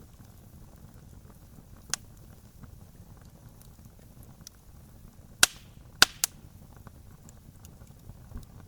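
Campfire crackling: a low, steady rush of burning with a few sharp, loud pops, one about two seconds in and three close together around five to six seconds in.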